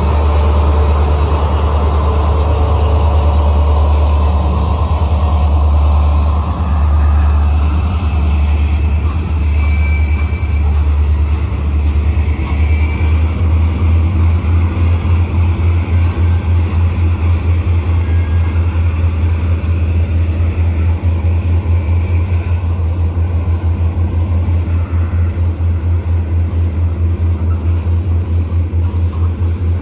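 A train passing close by: a loud low rumble from the locomotive and the rolling cars. Faint wheel squeals come in the first half, and from about halfway on the rumble beats in a quick, even rhythm as the cars' wheels roll past.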